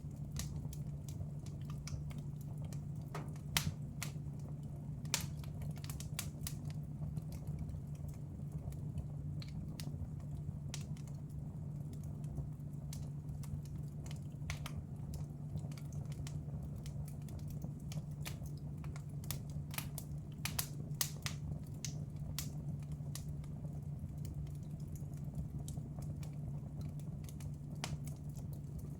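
Wood fire in a fireplace crackling, with irregular sharp pops, a few much louder than the rest, over a steady low hum.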